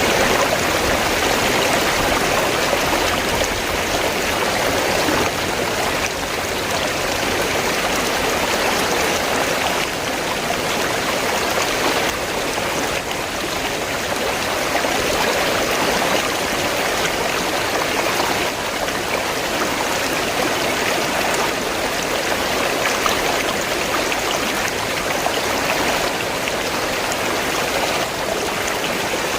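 River water flowing, a steady rushing with no break.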